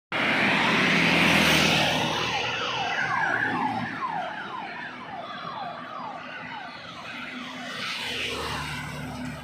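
Heavy truck passing with a rush of noise and engine hum, then a rapid series of falling siren-like horn tones, two or three a second, over the engine's low rumble.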